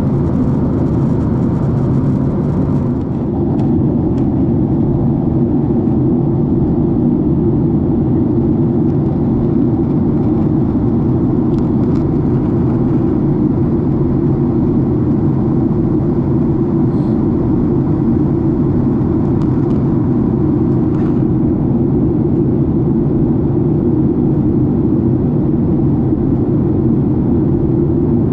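Steady cabin noise of a Boeing 767 in flight: a dense, unbroken low rumble of engines and airflow, with a few faint ticks.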